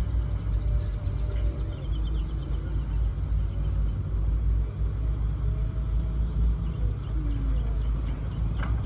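Construction machines working: a steady low rumble with faint whines above it that slide up and down in pitch.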